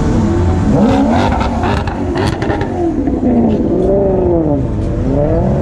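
Sports car engines revving up and down in repeated rising and falling swells, with a few sharp crackles about one to two seconds in.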